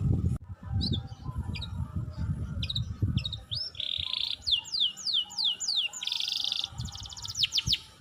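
A songbird calling: short buzzy trills alternating with a quick run of high, downward-sweeping whistles, ending in a fast string of notes. A low rumble fills the first few seconds.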